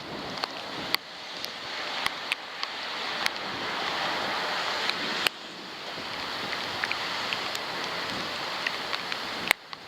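Thunderstorm wind and rain rushing over a waterproof camera, a steady hiss that swells and drops off abruptly a few times. Many sharp ticks, like drops striking the housing, are scattered through it.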